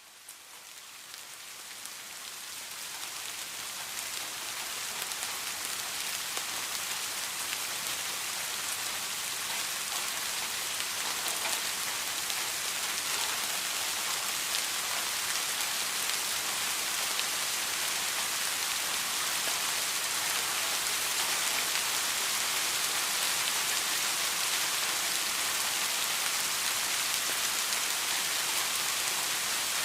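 Steady rain falling, a dense patter of many small drops, fading in over the first few seconds and then holding even.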